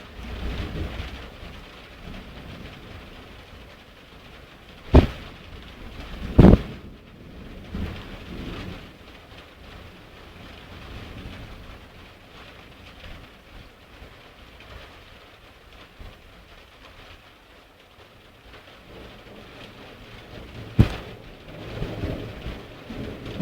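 Heavy thunderstorm: steady rain with low rumbles of thunder and three sharp cracks, about 5, 6.5 and 21 seconds in.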